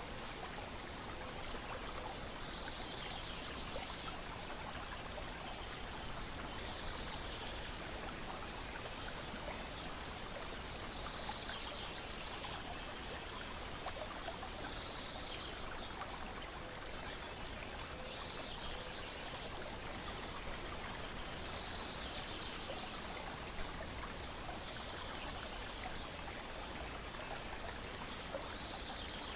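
Lake water lapping and trickling steadily, with a bird's short high call repeating about every three to four seconds and a few faint crackles of a wood fire.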